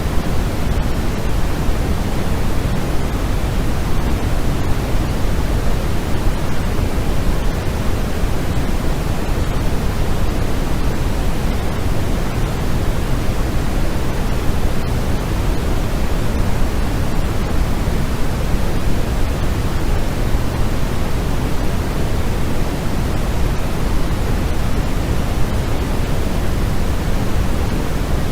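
Steady, unchanging noise for sleep, sold as white noise but heavier in the low end, like pink noise.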